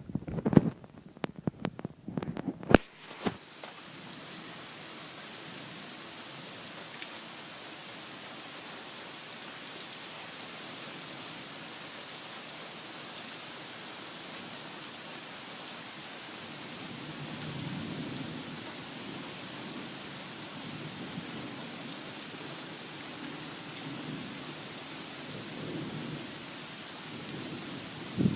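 Steady rain in a thunderstorm, with low rolling thunder swelling in and out through the second half. It opens with a few loud, sharp cracks and thumps in the first three seconds.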